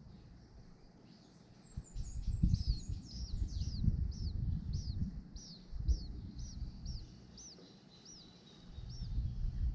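A small bird singing a series of quick down-slurred whistled notes, about two a second, the first ones higher and the later ones settling lower, stopping shortly before the end. An uneven low rumble comes and goes underneath.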